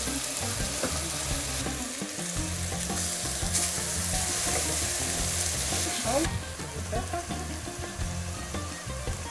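Onions frying in oil in a pan, sizzling steadily; the sizzle gets quieter about six seconds in.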